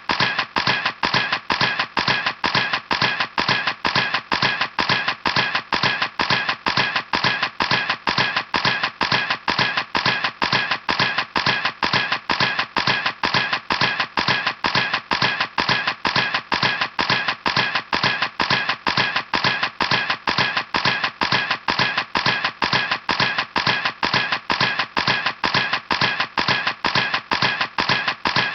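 Camera shutter clicking over and over at an even pace of about three clicks a second.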